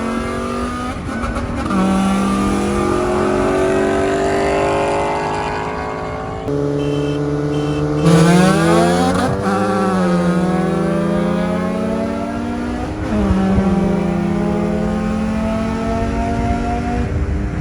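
Car engine accelerating hard through the gears, its pitch climbing in each gear and changing abruptly at several shifts.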